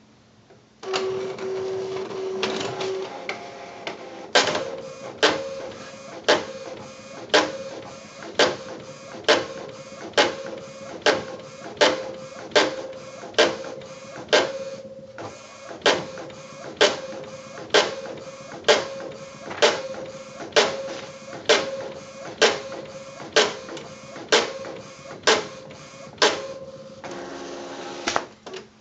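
Epson PX-G900 inkjet printer malfunctioning: its mechanism whirs, then knocks with a loud clunk about once a second, over and over, before it stops near the end. The repeated clunking is the abnormal noise of the broken printer.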